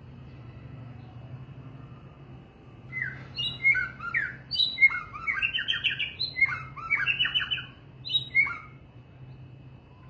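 A songbird sings a rapid, varied phrase of whistled notes, starting about three seconds in and lasting about six seconds, over a steady low hum.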